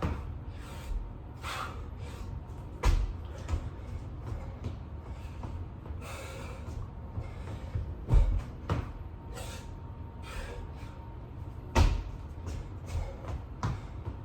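Bodyweight burpees on a floor: heavy dull thumps as the body lands, one every three to five seconds, with softer knocks and rustling in between.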